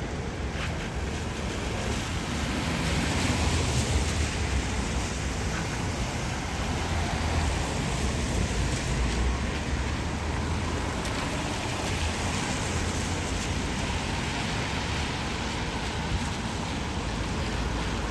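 Steady outdoor street noise in the rain: an even hiss of rain and wet traffic over a low rumble.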